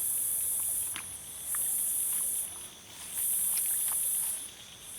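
Night insects calling in a swamp: a high-pitched buzzing chorus that swells and stops in regular pulses of about a second, four times, with a few faint ticks between.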